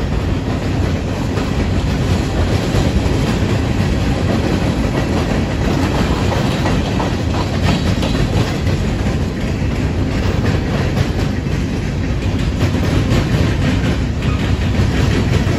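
Freight train cars rolling past, coil steel cars then gondolas: a steady rumble of steel wheels on rail with rapid clicking over the rail joints.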